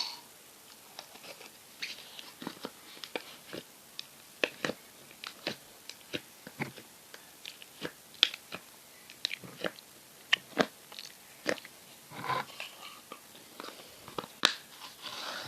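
Slime being squeezed and poked by hand, making an irregular string of sharp wet clicks and pops, with short longer squishing stretches about twelve seconds in and near the end.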